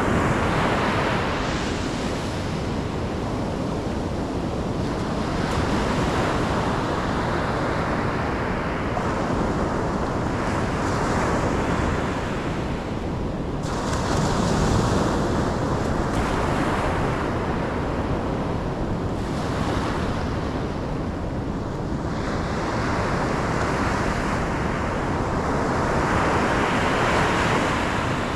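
Ocean waves breaking and washing on a shore, a continuous surf noise that swells and eases every few seconds, with some wind on the microphone.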